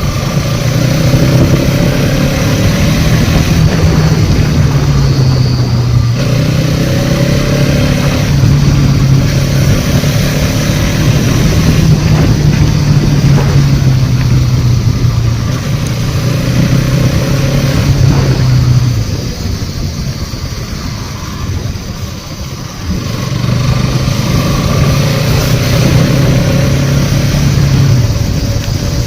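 Motorcycle engine running steadily under way. About two-thirds through, the engine note goes quieter for a few seconds, then picks up again.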